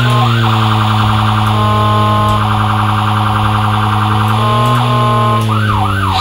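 Toy fire truck's electronic siren sounding: quick wails rising and falling, alternating with two stretches of rapid warble, over a steady low hum.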